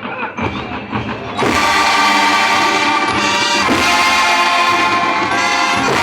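Student marching band playing: drum beats for about the first second and a half, then the wind section comes in loud, holding sustained chords over the drums.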